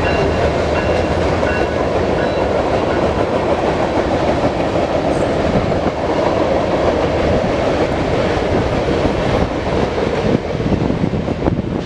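BNSF train's cars rolling past at speed: a steady, loud rumble of steel wheels on rail with clickety-clack, and faint high tones that die out within the first few seconds.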